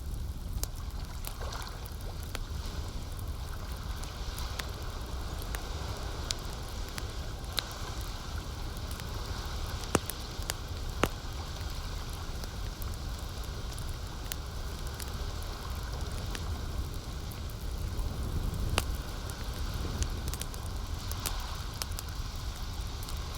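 Campfire crackling, with sharp pops scattered throughout (the two loudest about ten and eleven seconds in), over a steady wash of lake water lapping.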